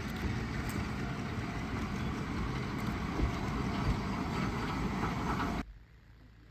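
Diesel railcar running with a steady low rumble, which cuts off abruptly near the end.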